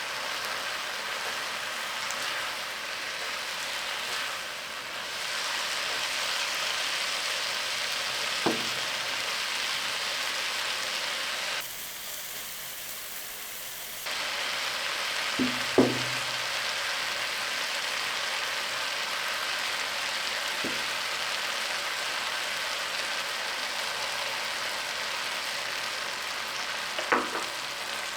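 Food sizzling in hot oil in a pan, a steady frying hiss that goes quieter for about two seconds halfway through. A few sharp knocks stand out above it.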